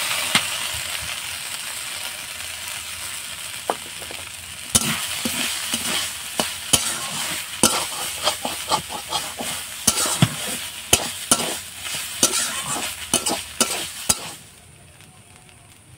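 Ground soya chunk paste with ginger, garlic and green chilli hitting hot oil in a metal kadai and sizzling, then stirred and scraped with a metal spatula, with many sharp clicks of the spatula against the pan. The sizzling suddenly goes much quieter shortly before the end.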